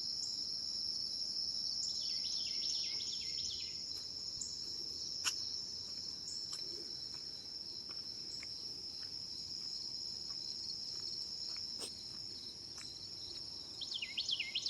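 A steady, high-pitched chorus of crickets chirring. A bird sings a quick run of falling notes about two seconds in and again near the end.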